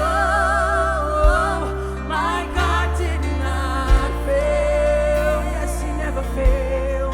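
A live gospel-style worship band plays: sung notes held long with vibrato, with no clear words, over sustained bass and keys. Heavy low drum hits fall about every two and a half seconds.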